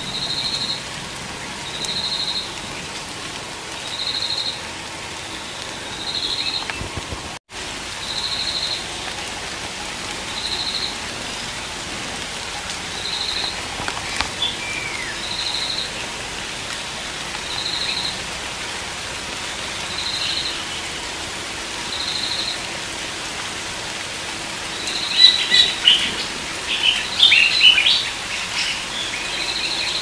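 Birds calling in a tropical forest canopy: one short high note repeats evenly about every two seconds over a steady background hiss. In the last few seconds a burst of loud, sharp chirps and calls breaks in.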